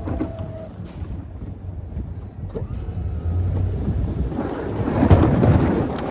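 Chevy plow truck engine running with a steady low rumble. It swells into a louder noisy surge about four and a half seconds in.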